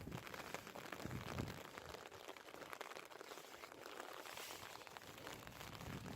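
Rain falling, an even hiss dense with tiny crackling drop impacts, with some low rumbling in the first couple of seconds.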